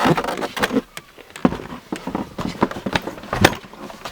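Plastic rear trim panel of a BMW E60 driver's seat back being fitted and pressed into its clips, giving irregular clicks and knocks. The sharpest knocks come about one and a half seconds in and again near three and a half seconds.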